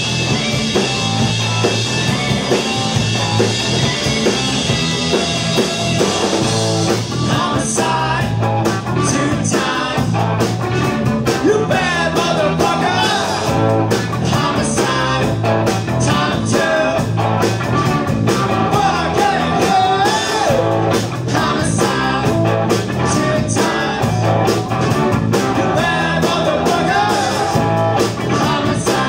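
A rock band playing live, with electric guitar and bass. For the first several seconds cymbals and chords ring out in a sustained wash; then the drums come in with a steady driving beat over a repeating bass line and a wavering guitar or vocal melody.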